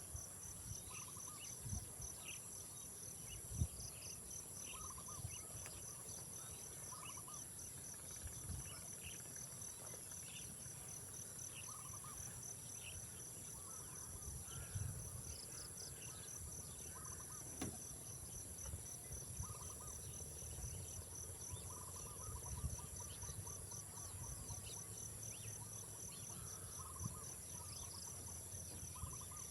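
A steady chorus of night insects: a continuous high shrill with a fast, even pulsing trill under it. Scattered short chirps and a few brief low thumps sit on top.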